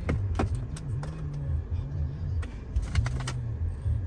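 Car running with a steady low engine and road rumble that rises and falls a little in pitch, with scattered light clicks and rattles over it.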